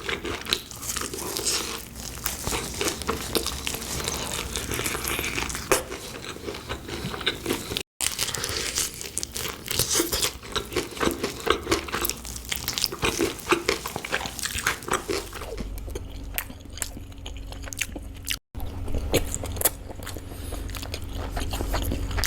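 Close-up crunching, biting and chewing of food by a person eating, spliced from several clips with two brief cuts to silence. A steady low hum runs under the last few seconds.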